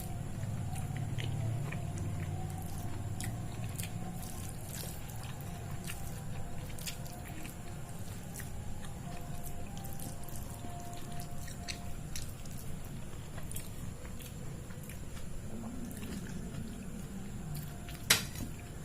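Close-miked eating sounds: chewing, with many small wet mouth clicks scattered throughout, and one louder sharp click near the end.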